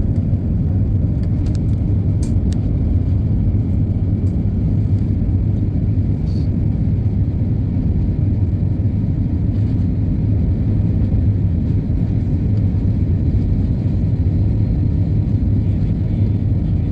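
Steady low rumble of an airplane cabin, the even drone of engines and airflow, with a few faint clicks early on.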